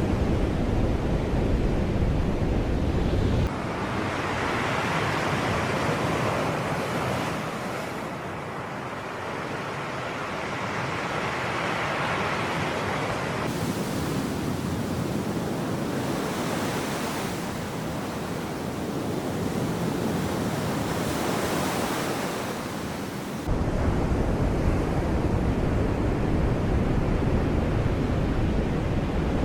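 Sea waves surging and washing in a continuous rush, with swells of surf every several seconds. A heavy low wind rumble on the microphone cuts out a few seconds in and comes back abruptly about two-thirds of the way through.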